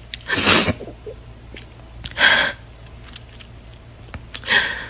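A woman crying: three short sobbing breaths, about two seconds apart, the first with a little voice in it.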